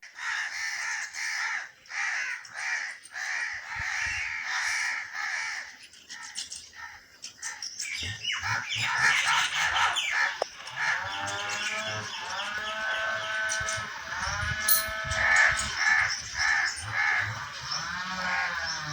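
Crows cawing: a run of separate caws in the first six seconds, then, after a short lull, a denser stream of overlapping calls from about eight seconds on, from an adult crow and its young.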